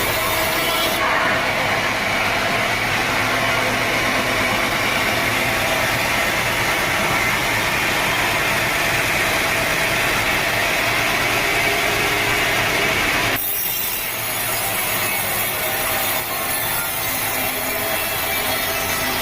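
Sawmill saw cutting through a teak log: steady, continuous noise of the blade running in the wood. The sound changes character abruptly about two-thirds of the way through.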